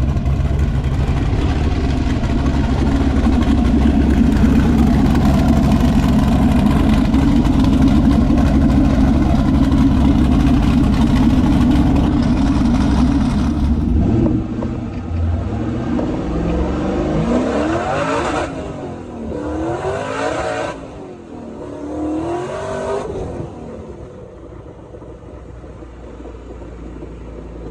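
LS V8 engine in a Nissan 300ZX running loud and steady for about fourteen seconds, then dropping off, revved three times, and settling to a low idle near the end.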